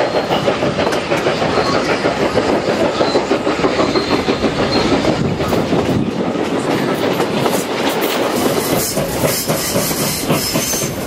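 Steam-hauled passenger train running, its coach wheels and running gear keeping up a rapid, continuous clickety-clack over the rails.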